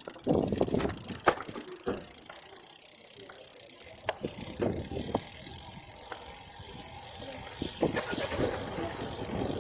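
Bicycle riding along a city street: a steady rolling noise with irregular rattles and knocks from the bike going over bumps.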